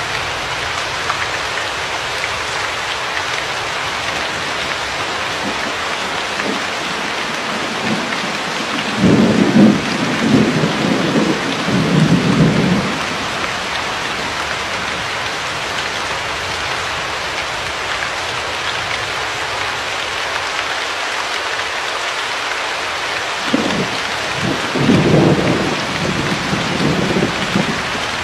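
Steady rain falling, with two low rolls of thunder, one about nine seconds in and another starting a few seconds before the end.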